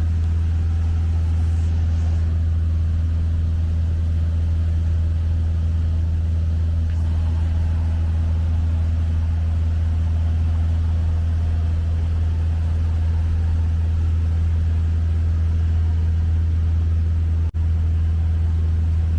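Cessna 150's four-cylinder air-cooled engine and propeller droning steadily at cruise in level flight, heard inside the cabin. The sound drops out for an instant about three quarters of the way through.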